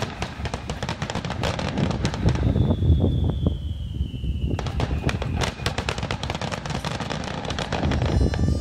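Starmine fireworks barrage: rapid, overlapping aerial shell bursts and crackles over a deep rumble. A high whistle slides down in pitch in the middle, and the barrage cuts off suddenly at the end.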